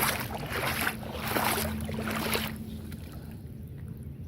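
Footsteps crunching on a gravel and rock riverbank, four steps that stop about two and a half seconds in, over a low steady rumble and a faint constant hum.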